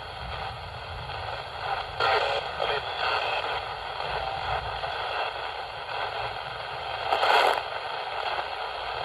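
Ghost box radio sweeping the AM band: steady static hiss broken by brief snatches of broadcast sound, the loudest burst about seven seconds in.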